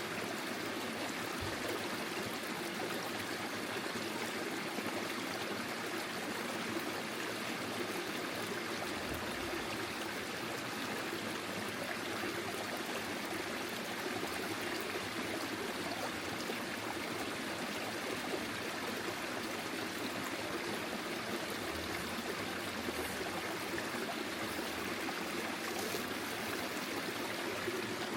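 A small forest stream flowing steadily over stones, with continuous babbling and trickling water.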